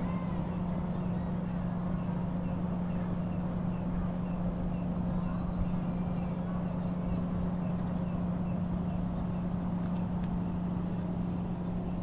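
Steady low hum of a diesel passenger train idling while it waits at a station stop. Faint chirping repeats evenly over it, a couple of times a second.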